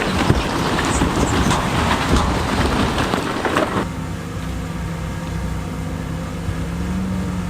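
Heavy diesel earthmoving machinery at work among stone: a dense, noisy clatter with many sharp clicks, which drops away abruptly a little past halfway. What remains is a steady diesel engine hum.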